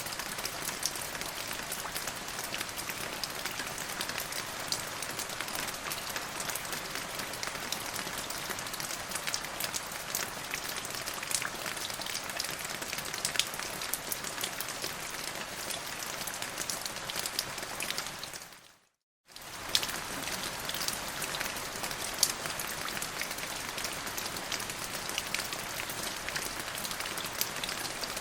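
Steady rain falling on a surface, with many sharp individual drop ticks over an even hiss. About two-thirds of the way in it fades to silence for under a second, then comes straight back at full level, like a loop joining.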